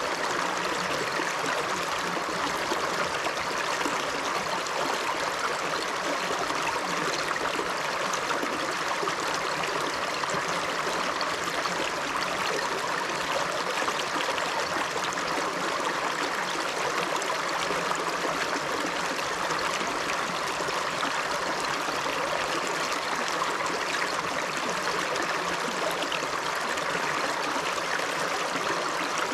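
River water rushing and gurgling over rocks in a steady, unbroken flow.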